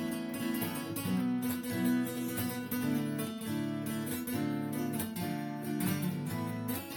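Acoustic guitar (violão) playing a sertanejo solo: a plucked melody of single notes over ringing bass notes, with occasional strummed chords.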